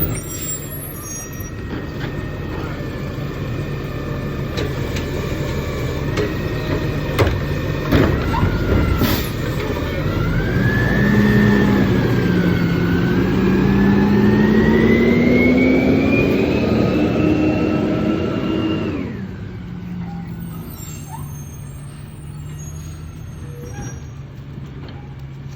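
Garbage truck's diesel engine idling, with a few sharp knocks about a third of the way in. The engine then revs up, its pitch climbing slowly for about nine seconds as the hydraulics work, and drops back to idle suddenly.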